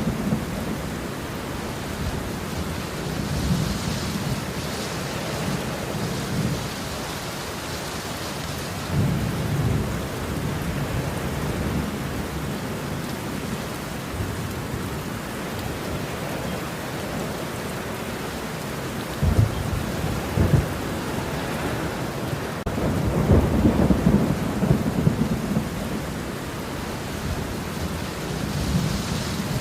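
Steady rain falling with rolling thunder, several low rumbles swelling and fading over it, the sharpest cracks about two-thirds of the way through.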